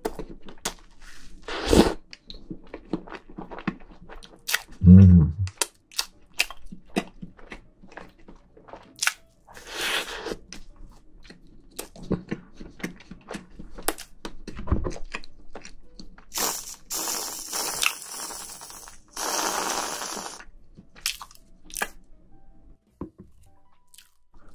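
Close-miked mouth sounds of someone chewing soft castella sponge cake topped with whipped cream: wet clicks and smacks throughout, a short low hum about five seconds in, and a few longer hissing noises in the second half.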